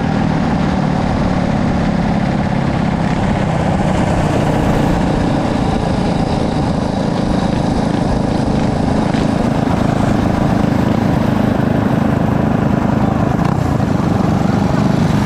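A small vehicle engine running steadily, loud and close.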